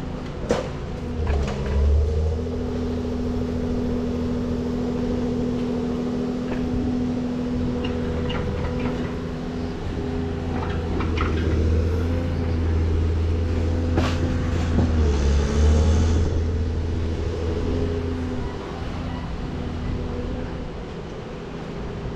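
A vehicle engine running at a steady pitch, with a few short knocks and clanks over it.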